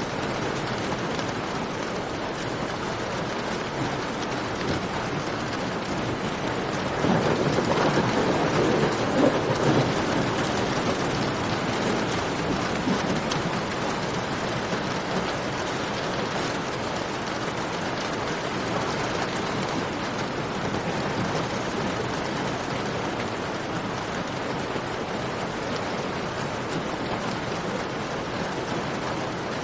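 Steady rain falling, with a roll of thunder swelling up about seven seconds in and fading over several seconds.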